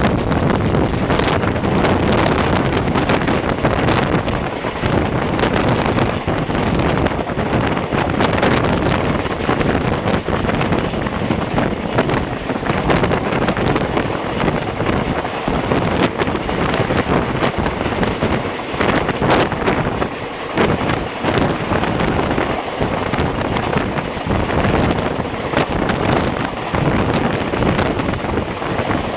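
Wind buffeting the microphone aboard a moving passenger train, over the steady running noise of the coaches on the track.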